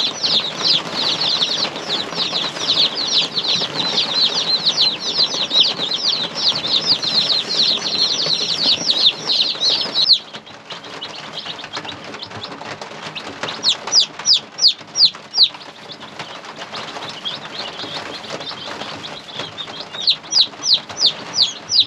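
Baby chicks peeping: a dense chorus of high, falling cheeps that thins to scattered peeps about halfway through.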